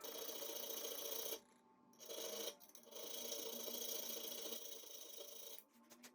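Steel being abraded by a hand-worked metalworking tool: a harsh rasping scrape in three passes, broken by two short pauses.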